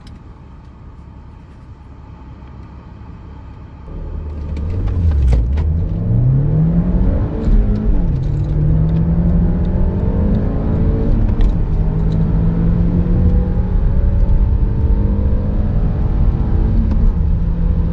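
Audi TFSI petrol engine idling quietly, then about four seconds in launching at full throttle. The revs climb, drop back at a gear change and climb again. The engine then holds a high, fairly steady note, with another brief dip near the end.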